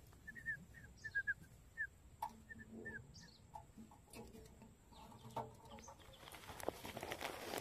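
A small bird chirps in quick, short high notes over the first three seconds. After that, rustling and scuffing grow near the end as hands work at a mesh net trap on dry ground.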